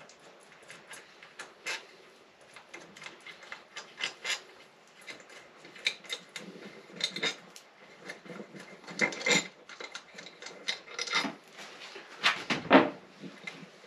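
Hand tools and small metal engine parts clinking and clattering during an engine teardown: irregular taps and knocks, with louder bursts of clatter about nine seconds in and again near the end.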